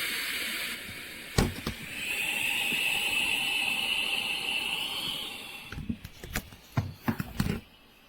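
Air hissing out of an Intex Explorer K2 inflatable kayak's valve: a fading hiss, then a steadier, higher hiss for a few seconds. A sharp knock comes about a second and a half in, and several small knocks near the end. The hiss is the kayak deflating through its valve right after inflation.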